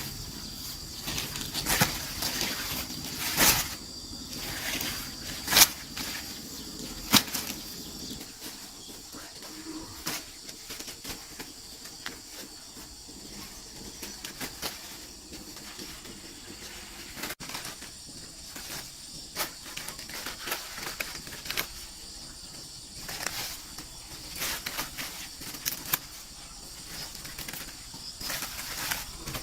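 Irregular sharp knocks and clicks with rustling, the loudest few in the first seven seconds, over a steady high drone of insects.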